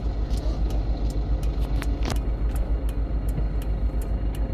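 Inside a GAZon Next truck cab driving through a blizzard: a steady low rumble of engine and road noise, with frequent short, sharp ticks.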